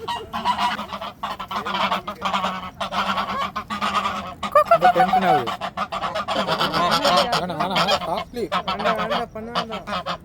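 A flock of farm poultry calling loudly, many overlapping pitched calls without a break, cutting off abruptly at the end.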